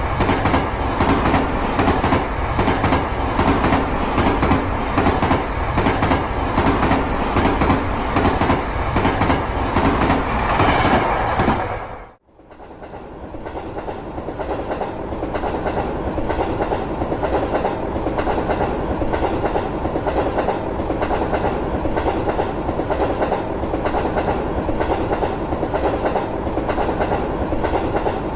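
Plarail toy train, a pair of battery-driven EF65 locomotives hauling a 15-car freight train, running on plastic track: a steady motor whir with quick, regular clicking of wheels over the rail joints. About 12 seconds in the sound cuts out briefly and comes back duller.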